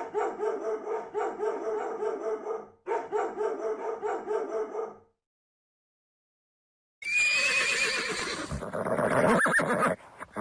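A horse whinnying: a high, wavering call that falls and trails off lower, starting about two-thirds of the way through. Before it come two bouts of a rapid pulsing call, about four pulses a second, separated by a short break.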